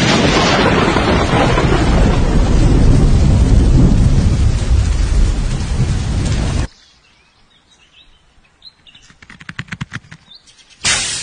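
Heavy rain with rumbling thunder, a loud steady rush that cuts off abruptly after about six and a half seconds. Birds chirp in the quiet that follows, then comes a run of rapid clicks and a sudden loud burst of noise near the end.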